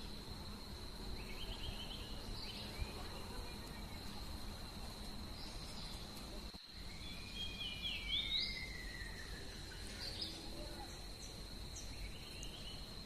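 A steady high-pitched insect drone with birds calling over it: short chirps, then a longer call that slides down in pitch about two-thirds of the way through, over a low background hum.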